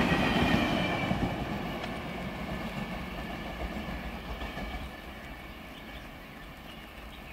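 LHB passenger express running away down the line: the rolling of wheels on rail with some clickety-clack, loud at first and fading steadily over about five seconds as the last coach recedes.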